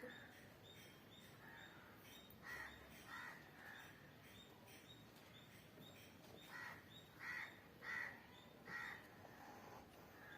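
Crows cawing faintly: a run of three short caws, then a run of four about three seconds later, each a little under a second apart.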